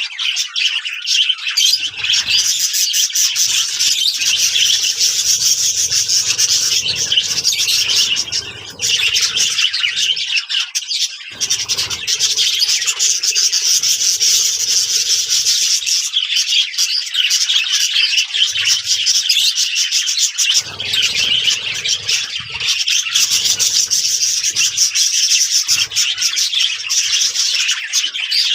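Budgerigars chattering and warbling continuously, a dense stream of many overlapping high chirps from a group of birds.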